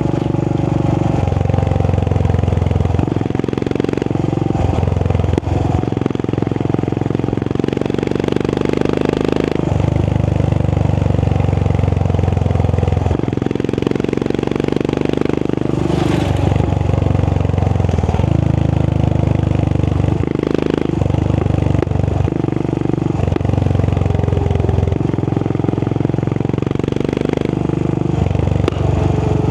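Royal Enfield Continental GT 535's 535cc single-cylinder engine running through an aftermarket AEW exhaust while riding. The engine note swells and drops every few seconds as the throttle is opened and closed.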